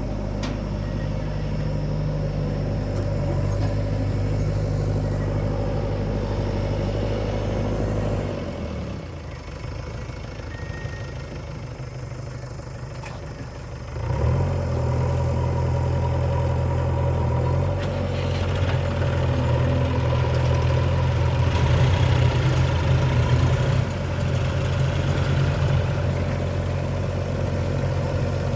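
Heavy diesel engine of earth-moving machinery running steadily. About eight seconds in it drops to a lower, quieter idle, and about six seconds later it picks up again sharply and keeps working under load.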